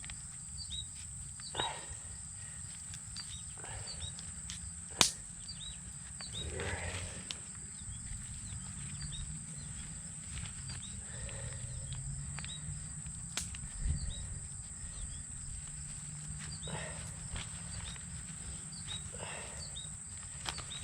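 Insects droning in a steady high buzz, with a few sharp clicks and some soft rustling of handling.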